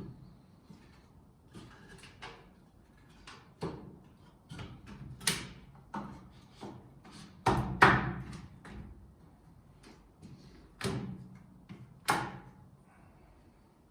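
Wooden knocks and short scrapes from hand-tool work on wooden parts. There are about half a dozen strong, irregular knocks among lighter taps, and the loudest comes about eight seconds in.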